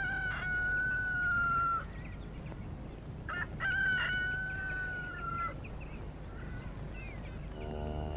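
Rooster crowing twice, each crow ending in a long held note.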